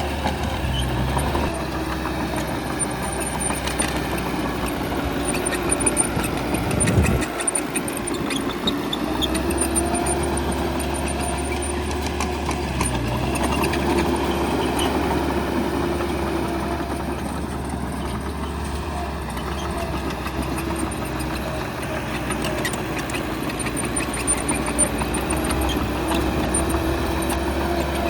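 Bulldozer's diesel engine running steadily at work, with a brief louder moment about seven seconds in.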